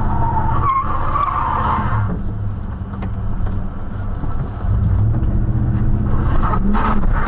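Vehicle engine running steadily, with a rougher, higher noise over it for the first two seconds.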